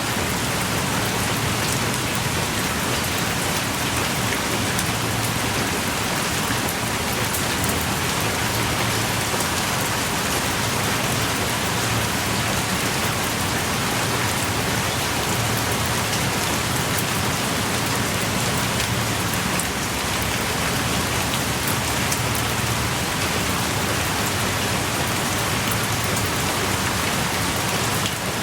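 Steady heavy rain pouring down, with a dense patter of drops on surfaces.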